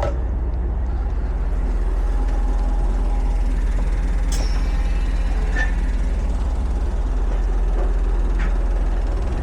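Semi truck's diesel engine idling steadily, with a low, even hum and a couple of faint clicks.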